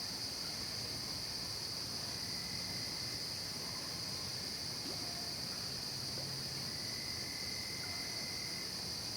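Late-summer night chorus of crickets and other insects: a steady, high-pitched drone with no breaks.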